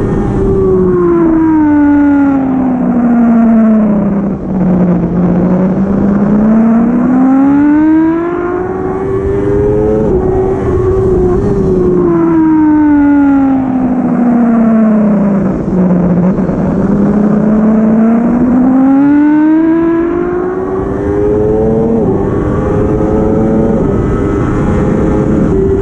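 Racing superbike engine at high revs on track: the engine note falls steadily for several seconds as the bike slows, then climbs again through the gears with brief dips at upshifts, twice over.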